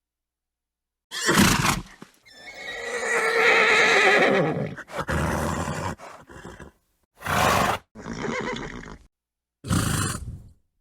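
Horse neighing: one long wavering whinny begins about two seconds in, set among several short, sharp snorts, with gaps of silence between them.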